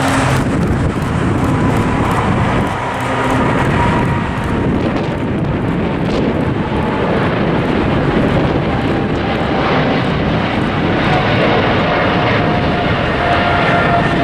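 Cargo jet airliner's engines at takeoff power: a loud, steady jet roar with faint whining tones.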